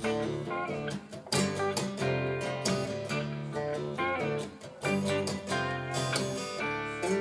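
Acoustic guitar strumming chords in a steady rhythm, the instrumental opening of a folk song before the singing comes in.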